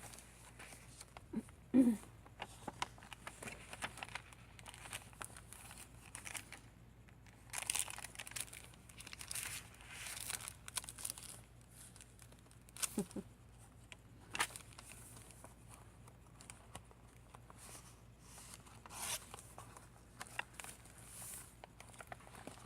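Paper and card rustling and crinkling in bursts as the pages of a handmade junk journal, with its tags, pockets and little bags, are turned and handled. A short pitched sound comes about two seconds in.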